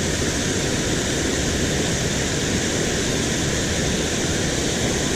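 Water rushing over a small spillway, a steady, unbroken noise.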